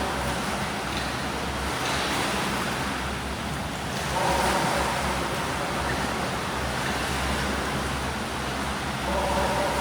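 Swimming pool sounds: steady splashing and churning of water from swimmers doing breaststroke drills, over a low steady hum.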